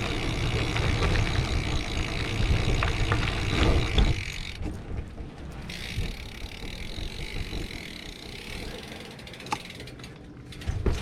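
BMX bikes rolling along, with tyre and wind noise that is loud for the first four seconds, then drops to a quieter rumble with scattered clicks.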